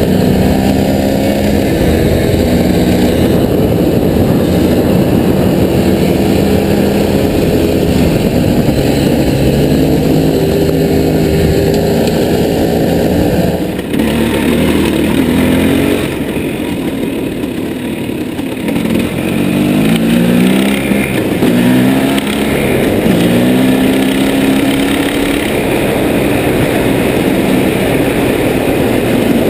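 Off-road vehicle engine running while riding, its pitch rising and falling again and again as the throttle is worked, with a brief drop about 14 seconds in.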